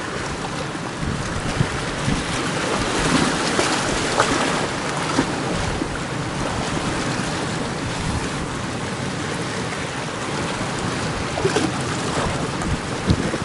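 Strong gale wind buffeting the microphone over the steady wash of sea surf, swelling louder a few seconds in.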